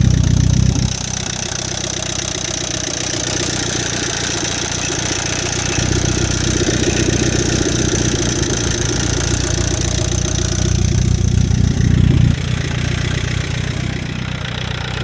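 Chevrolet Captiva engine running, blipped briefly at the start, then held at higher revs for about six seconds from roughly six seconds in before dropping back to idle. The noise is that of a bad used replacement engine.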